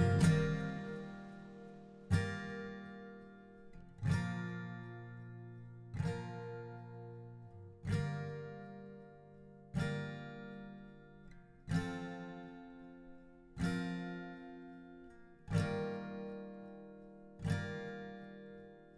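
Acoustic guitar music: a chord strummed about every two seconds, nine times, each left to ring and fade.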